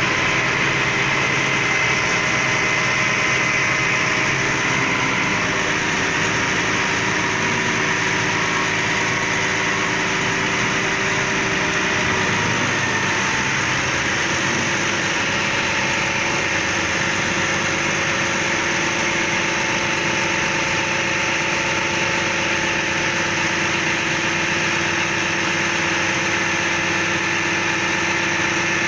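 Front-load garbage truck engine running steadily, with a steady whine whose pitch shifts slightly about twelve seconds in.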